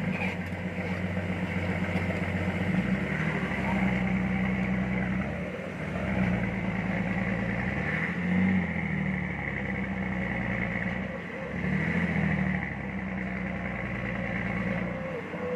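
Heavy diesel engine working under load, its pitch and loudness rising and falling several times during the recovery of a truck stuck with a chain hitched to it.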